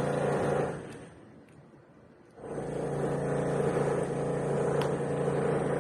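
A steady mechanical hum at a fixed pitch, like a motor or engine running. It fades away about a second in and comes back abruptly about a second and a half later.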